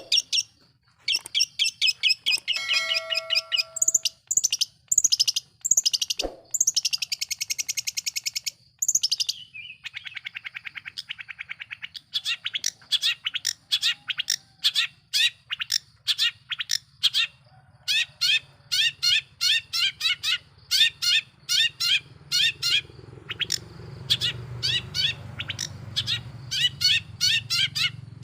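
Long-tailed shrike (cendet) singing loudly. It opens with quick, varied chattering phrases, then settles into a steady run of sharp repeated notes about two and a half a second. A low hum lies underneath and grows louder near the end.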